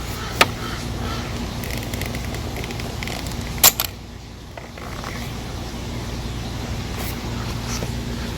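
Two sharp clicks, one just after the start and a louder one near the middle, as the throttle and shift cable ends are worked off their pins in the control box, over a steady low hum.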